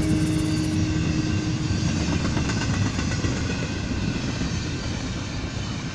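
Double-stack intermodal container train rolling past: a steady rumble and rattle of the well cars on the rails, slowly getting quieter.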